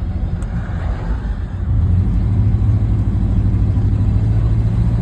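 A car engine running with a steady low drone that gets louder about two seconds in and then holds steady.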